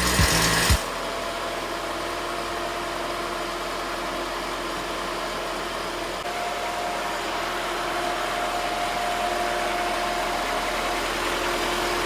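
A 1997 Nissan Hardbody pickup's four-cylinder engine idling steadily, with a faint steady whine over the running. A music track with a beat cuts off under a second in.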